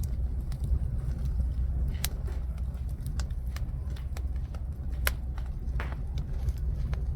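Jujube-wood fire crackling, with sharp irregular pops, the clearest about two and five seconds in, over a steady low rumble.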